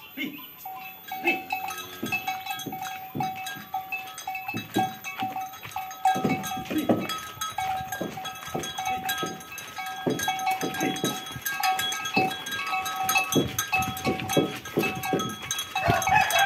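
Bells on a pair of cart oxen ringing on and off as the animals walk, with irregular knocking and clattering from hooves and the ox cart.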